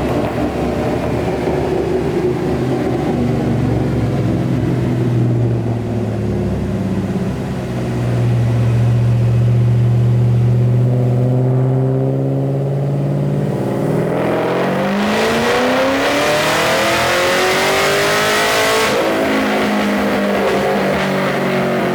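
2011 Cadillac CTS-V's supercharged 6.2 L V8, fitted with long-tube headers, running steadily in gear on a chassis dyno, then making a wide-open-throttle pull about 14 seconds in. The engine note climbs steadily and grows much louder for about five seconds, then the throttle is lifted and the revs fall away.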